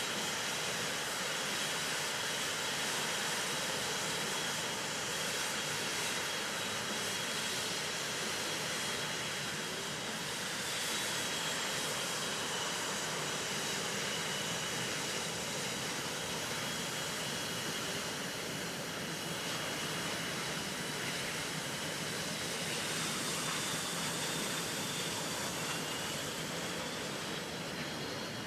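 Steady jet noise from Blue Angels F/A-18 Hornets in flight, with faint high turbine whines that slowly shift in pitch as the jets move.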